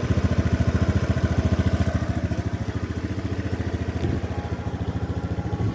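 Honda Beat FI scooter's single-cylinder engine idling steadily with an even pulse. It is running smoothly on new crankshaft bearings, without the rough boiling-water rasp that the worn bearings caused.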